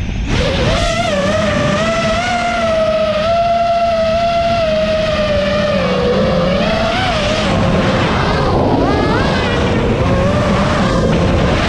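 DJI Spark quadcopter's motors and propellers whining in flight, the pitch wavering up and down as the throttle changes, dipping about halfway through and swinging up again a little later.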